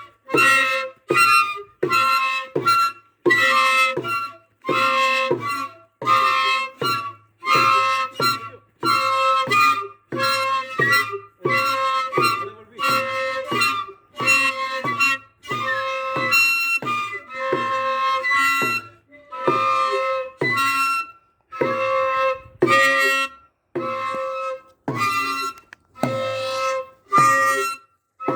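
Flautas de chino, the long cane flutes of a Chilean chino dance band, blown in short loud blasts one after another, just over one a second. Each blast is a hoarse single tone, likened to the honk of a goose or swan.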